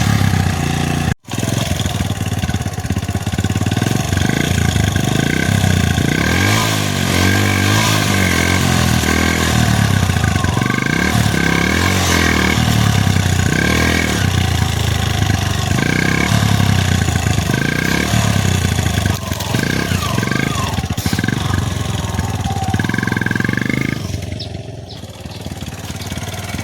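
Motorcycle engine running, its pitch shifting up and down, with a brief sudden break about a second in.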